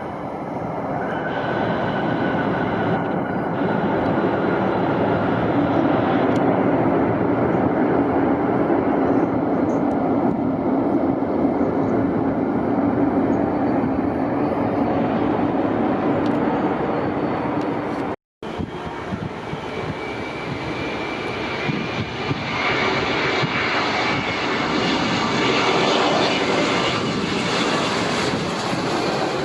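Airliner engines running loudly at the airport, a steady dense rush with a faint whine. The sound cuts out abruptly for a split second about two-thirds of the way through, then resumes with a higher whine.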